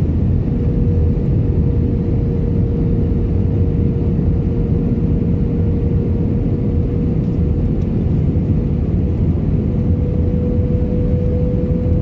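Airliner cabin noise: a steady deep rumble of engines and airflow, with a constant hum just under 500 Hz.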